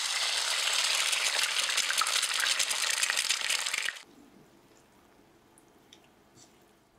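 Loud sizzle of food frying in a pan, full of fine crackles, cutting off suddenly about four seconds in; after that near silence with a few faint clicks.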